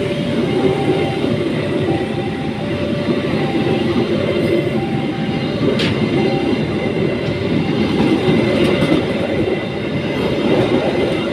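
Passenger train coaches running past at speed close by: a steady, loud rumble of steel wheels on the rails, with one sharp click about six seconds in.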